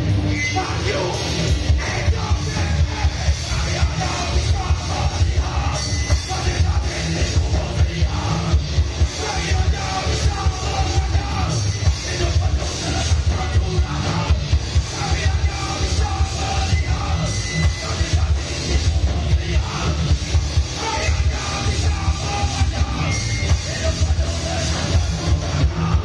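Live heavy rock band playing loud and fast, with distorted guitars, bass and pounding drums, and a shouted vocal over it.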